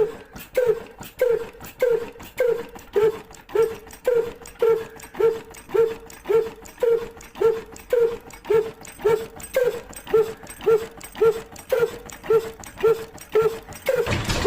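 A small mechanism squeaking once per turn, a short pitched squeak about twice a second, over faint fast clicking.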